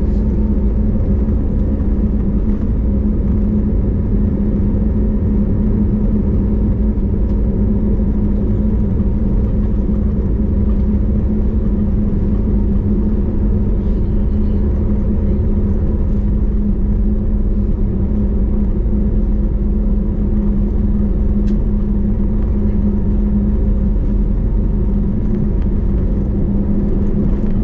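Steady cabin drone inside an Airbus A320neo in flight: engine and airflow noise with a low rumble and a constant hum, unchanging throughout.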